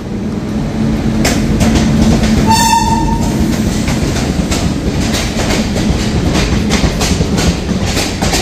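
Garib Rath Express train arriving at the platform: a steady low rumble of the train, one short horn blast about two and a half seconds in, then the clickety-clack of wheels over rail joints, about two clicks a second.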